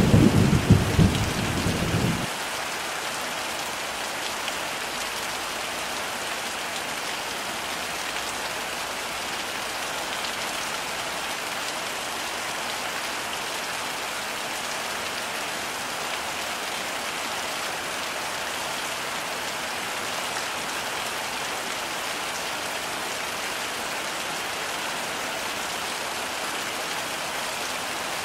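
Steady heavy rain, an even hiss of dense drops. A low thunder rumble runs at the start and cuts off suddenly about two seconds in, leaving only the rain.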